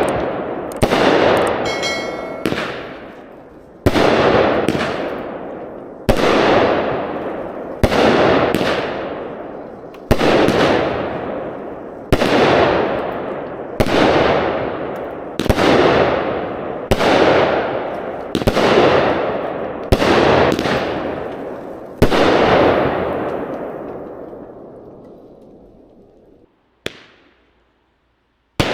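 A 200 g, 14-shot round firework cake (Magnus 'Blue Ox') firing its aerial shells one after another, about every two seconds. Each shot is a loud bang followed by a long echo that dies away. The shots stop a few seconds before the end, and there is a single bang right at the end.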